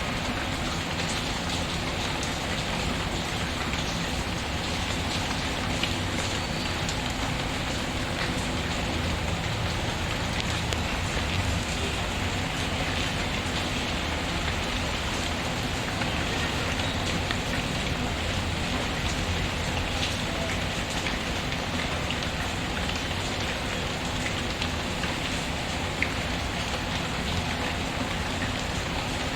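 Steady rain patter mixed with a crackling wood fire, with scattered small pops.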